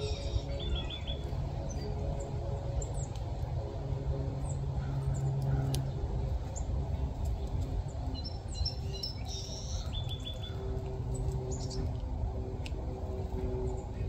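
Bird chirps in two short bouts, near the start and again about nine seconds in. Each bout is a few high notes followed by a quick run of three or four lower notes, over a steady low hum.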